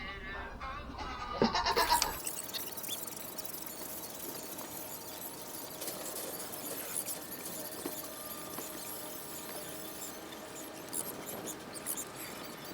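A goat bleats loudly once about a second and a half in, then a steady low background with a few soft knocks near the end.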